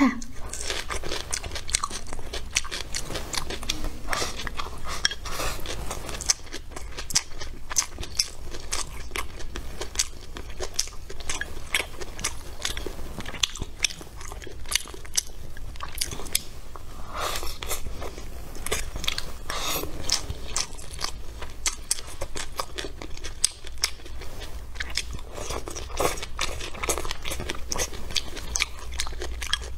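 Close-up chewing and crunching of stir-fried celery and greens with rice: many crisp bites and wet mouth clicks, over a steady low hum.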